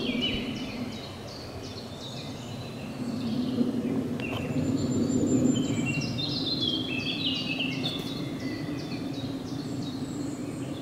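Songbird singing phrases of quick notes that step down in pitch, with the longest phrase about halfway through, over a steady low rushing background.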